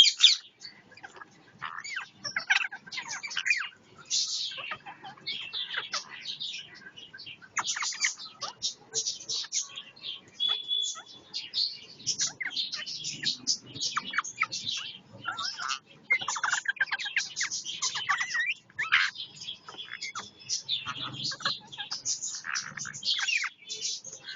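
Parrots squawking and chattering in rapid, irregular high-pitched calls, with short pauses between bouts.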